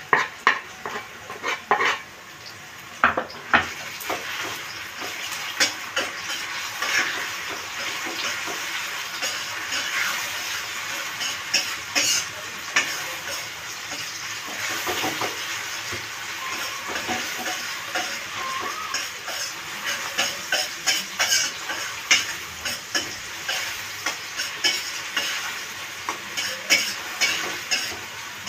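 Ground shallot and garlic paste, just added to hot oil with sautéed onion in a nonstick wok, sizzling steadily. A spatula scrapes and knocks against the pan over and over as it is stirred, with a few sharp knocks near the start.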